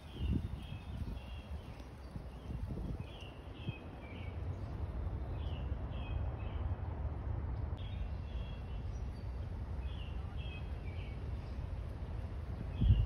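A small songbird singing short chirped phrases, repeated every one to two seconds, over a steady low rumble.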